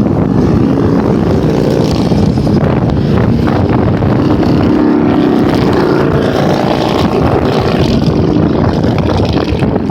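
A procession of many motorcycles passing on a highway, their engines running together in a loud, steady, overlapping drone.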